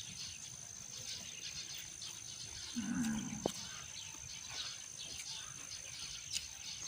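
Rural outdoor ambience in rain: a steady high whine and faint scattered chirps over a low haze. About three seconds in comes one short, low animal call.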